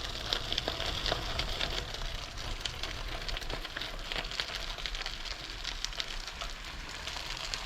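Bicycle tyres rolling over a gravel carriage road, a steady crackle of small irregular crunches and clicks.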